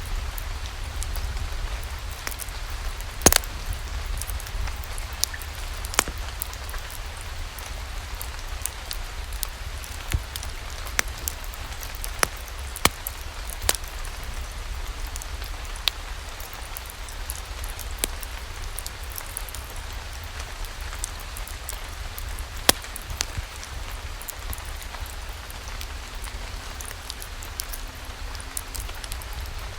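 Steady rain falling, with a low rumble underneath and scattered, irregular sharp pops and crackles of a wood fire.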